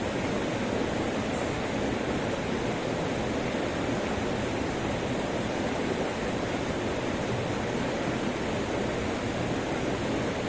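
Waterfall: a steady rush of falling water, even and unbroken, deepest in the low-middle range.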